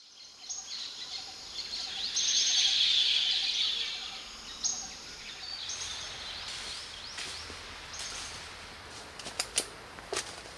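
A chorus of many birds chirping and calling at once, busiest and loudest a couple of seconds in and then thinning out. A few sharp clicks come near the end.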